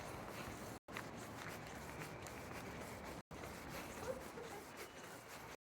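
Steady faint outdoor background noise with a few soft clicks and rustles, broken three times by a split-second drop to silence.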